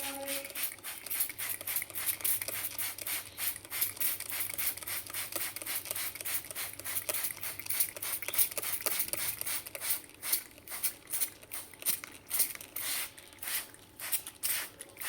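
Pet parrot bathing: a rapid, irregular patter of splashes and wing flutters that carries on throughout.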